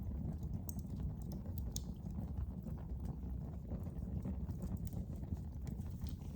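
Wood fire burning in a fireplace: a steady low rumble of the flames with irregular sharp crackles and pops of burning wood.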